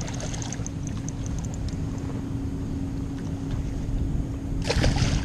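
Steady low rumble of wind and river water on the microphone, with a constant low hum under it. Near the end comes a brief loud rustle.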